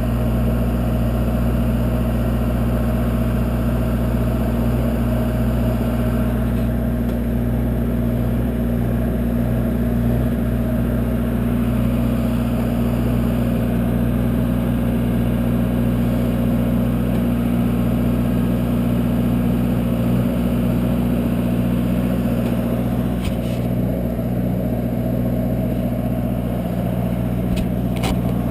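A truck engine idling steadily, most likely the engine of the crane or boom truck that hoisted the worker up the tower. A couple of faint clicks come near the end.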